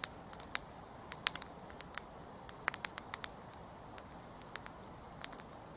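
Wood campfire burning with irregular sharp crackles and pops over a soft steady hiss of flame.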